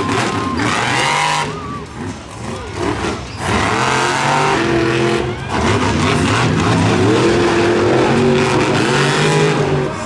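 Monster truck engines running hard in a race, with a pitch that rises and falls as the drivers work the throttle. The loudness drops briefly about two seconds in, then stays loud.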